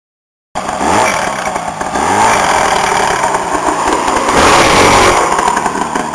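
Modified lawn tractor's engine running and being revved, cutting in suddenly about half a second in, with rising revs around one and two seconds and a louder burst about four seconds in.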